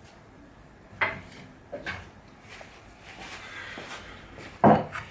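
A few separate knocks and clatters of wood and tools being handled on a workbench, with a faint scraping in between; the loudest knock comes near the end.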